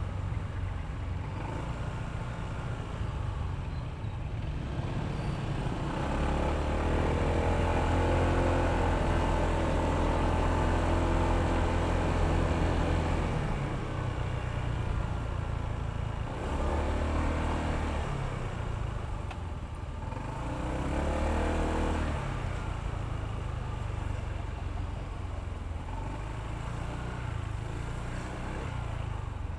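Honda ADV160 scooter's single-cylinder engine running under way, mixed with road and wind noise. The engine note gets louder and holds steady for several seconds about a fifth of the way in, then swells twice more in shorter bursts.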